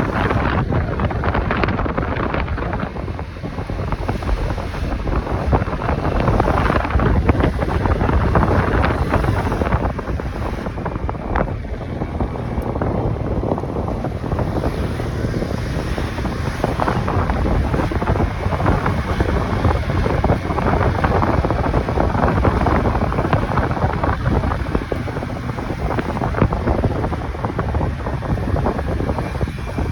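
Wind rushing over the microphone of a moving motorcycle, a steady loud roar heaviest in the low end, with the ride's engine and road noise blended underneath.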